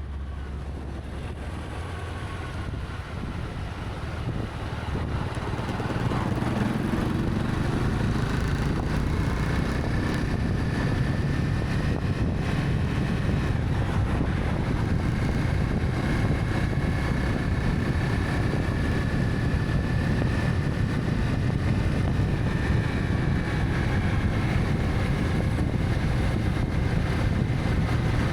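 Honda CB300F motorcycle riding along, with its single-cylinder engine and wind rushing over the microphone. The sound grows louder between about four and six seconds in, then holds steady.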